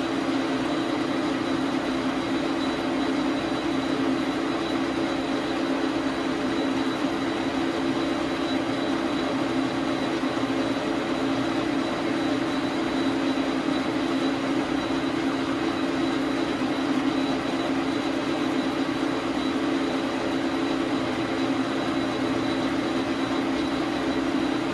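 Dar Sin 12 x 37 manual metal lathe running steadily, a constant machine hum with a thin high whine over it.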